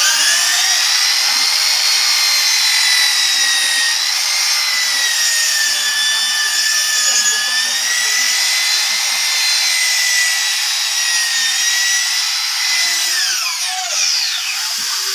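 Electric power sander on a solid-surface countertop. It spins up at the start and runs with a steady high whine that wavers slightly in pitch. About thirteen seconds in it is switched off and winds down.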